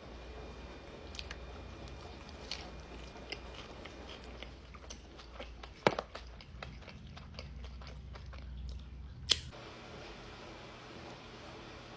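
A person biting and chewing food close to the microphone: many small wet clicks and crunches, with two loud sharp crunching bites about halfway through and about three seconds later, over a low steady hum.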